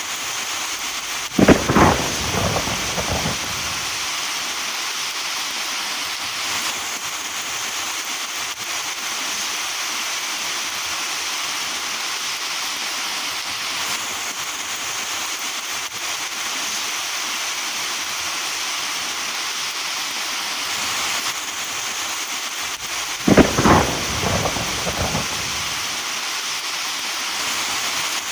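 Steady rain with two claps of thunder, one about a second in and one near the end, each lasting about two seconds.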